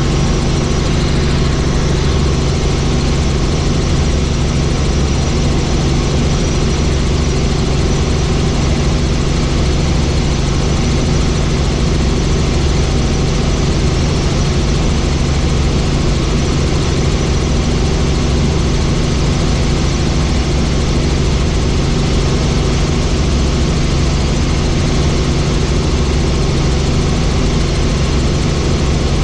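Helicopter in flight: a loud, steady drone of the rotor and turbine engine, with a constant low hum.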